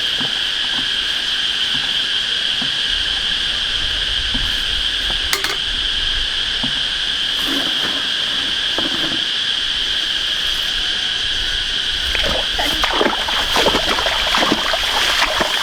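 A steady, high-pitched insect chorus, with scattered splashes and slaps of water and mud that grow busier near the end.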